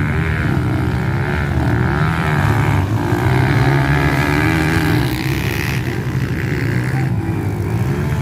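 Dirt bike engines running, the pitch rising and falling as the throttle is worked.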